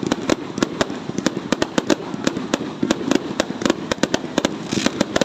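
Fireworks going off in rapid, irregular succession, several sharp bangs and cracks a second over a constant background din.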